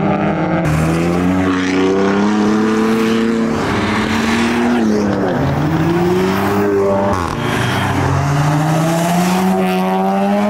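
A car engine revving, its pitch climbing steadily, dropping away sharply about five seconds in and again about seven seconds in, then climbing again each time.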